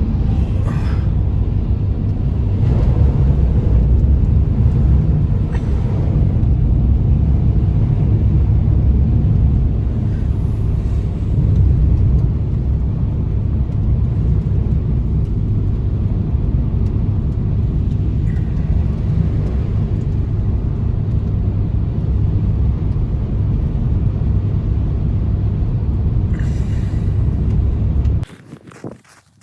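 Strong blizzard wind buffeting the microphone: a loud, steady low rumble that cuts off suddenly near the end.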